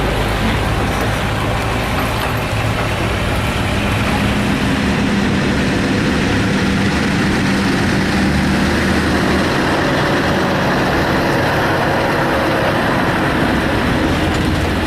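A large vehicle's engine running steadily, a continuous drone with road noise.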